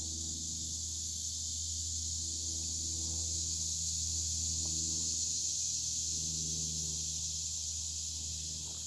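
Steady high-pitched drone of an insect chorus, with a low steady hum underneath.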